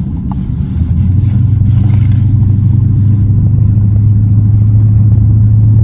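Audi V8's engine and stainless-steel exhaust heard from inside the cabin while driving: a steady low drone that gets louder about a second in and then holds.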